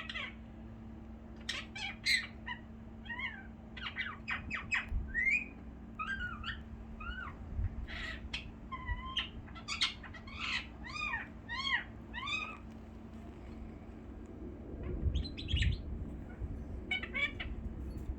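Pet birds chirping and calling: a run of short chirps and whistled notes, many rising then falling in pitch, with a gap of a couple of seconds before two last bursts. A faint steady hum runs underneath.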